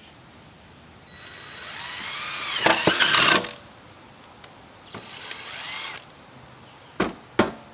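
A power screw gun driving roofing screws into metal roof panels. There is one long run of about two seconds that grows louder toward its end, then a shorter run about five seconds in. Two sharp knocks come near the end.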